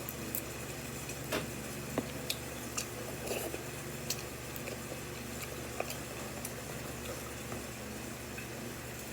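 Eating black bean noodles: scattered soft wet clicks and squishes of chewing and utensils, over a steady low background hum.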